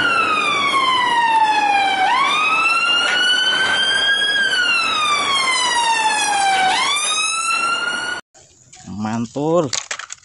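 Toy fire truck's electronic siren wailing: the pitch sinks slowly, jumps back up, climbs and sinks again in two long cycles, then cuts off suddenly about eight seconds in.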